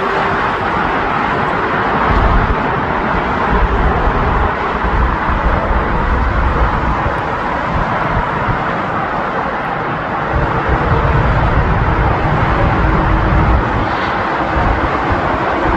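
Jet airliner engines running, a loud steady rushing noise with a deep rumble that swells about two seconds in and again near ten seconds in.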